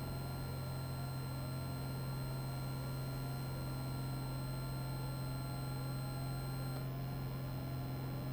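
Steady low drone of a Piper PA-28's engine and propeller in the climb after takeoff, with faint steady whining tones above it; a thin high tone drops out about seven seconds in.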